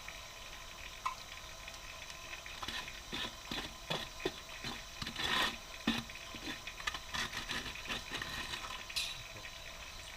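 Water trickling with irregular small splashes and drips over a faint steady hum.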